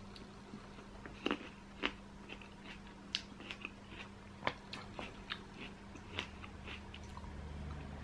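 A person eating close to the microphone: faint chewing with scattered soft clicks and small crunches, the sharpest about a second and two seconds in.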